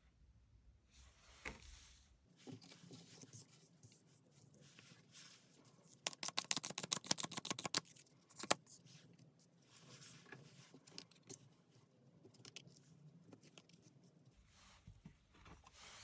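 Tarot cards being handled and shuffled: soft scraping and papery clicks, with a quick rapid run of card clicks about six seconds in and a sharp single click shortly after.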